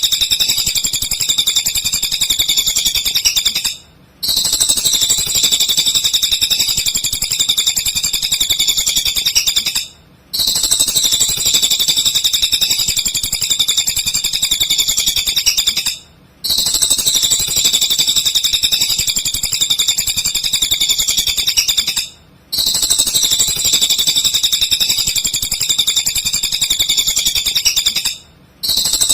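Cililin bird singing vigorously: a fast, high-pitched, unbroken chattering trill, cut by a short gap about every six seconds, as in a looped masteran track for tutoring white-rumped shamas.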